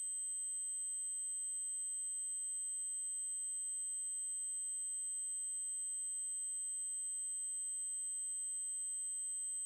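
Synthesized 8192 Hz triangle-wave test tone: one steady, very high-pitched unbroken tone.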